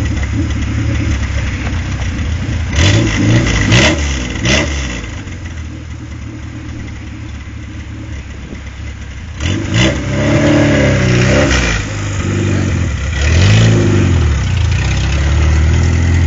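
Lada Niva's four-cylinder engine running, blipped up and down in a few quick revs near the start. It settles to a steadier idle, then revs up and down again through the second half as the car pulls away.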